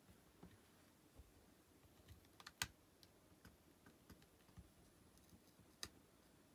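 Faint clicks and taps of small parts being handled as a Sony NW-1000 Walkman is taken apart, with a sharper click about two and a half seconds in and another near six seconds.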